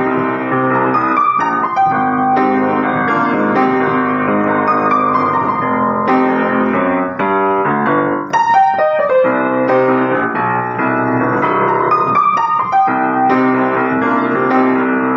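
Electric piano playing a jazz-funk tune, a melody line over held chords, with no drums.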